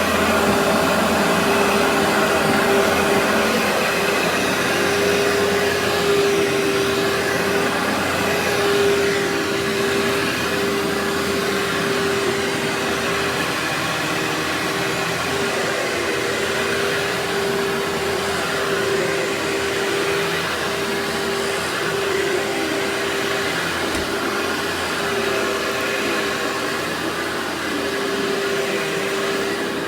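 Workhorse vacuum cleaner running steadily, a continuous motor and airflow drone with a constant hum tone through it.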